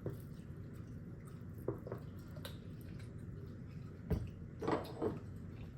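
Close-miked eating sounds: wet chewing and mouth smacks of someone eating fried chicken, as short scattered clicks. A low thump comes about four seconds in.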